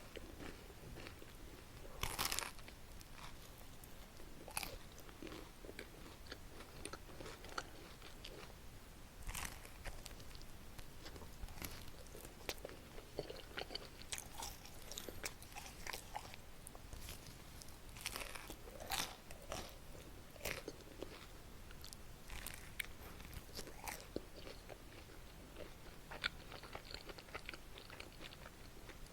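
Close-miked eating of a chocolate waffle: crisp crunching bites at irregular intervals, with steady crunchy chewing in between.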